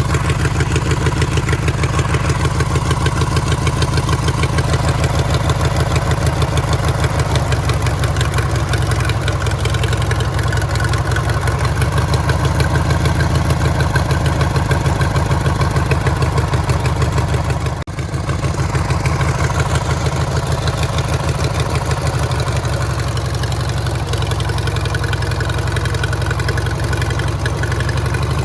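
Rebuilt 18 hp engine of a 1985–86 Murray lawn tractor running steadily with a strong low, even beat. There is a momentary break in the sound about two-thirds of the way through.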